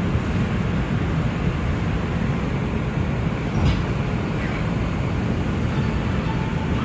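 NYC Subway R142 train running at speed on the express track: steady rumble of wheels on rail heard from inside the car, with one brief click a little past halfway.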